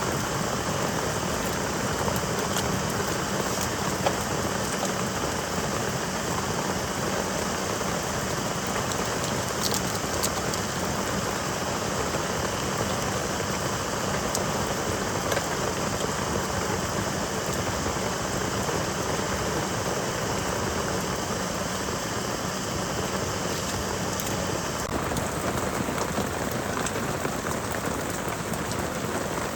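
Heavy rain falling steadily, pattering on a surface, with a few sharper drop taps here and there.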